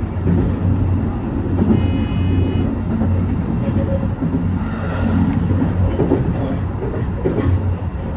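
Train running, heard from inside the car: a steady low drone with a continuous rumble of wheels on the rails, and a brief thin high tone about two seconds in.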